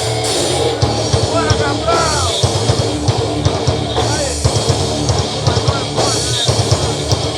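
Live rock band playing loud heavy rock, a drum kit hitting a fast, busy beat under dense band sound, with a few bending pitched notes in the middle range.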